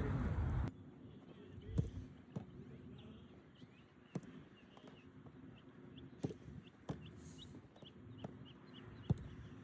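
A louder stretch of sound cuts off suddenly just after the start. Then footballs are kicked now and then, each a single sharp knock, about six in all, over faint bird chirps that come quickly one after another for a couple of seconds in the second half.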